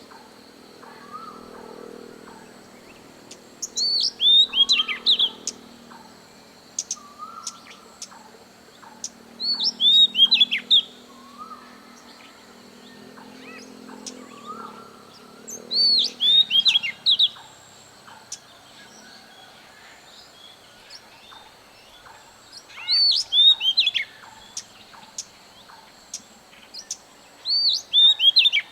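A wild bird singing a short phrase of several quick, loud, down-slurred whistled notes, repeated about every six seconds. Softer, lower bird notes come between the phrases, over a faint steady high hum.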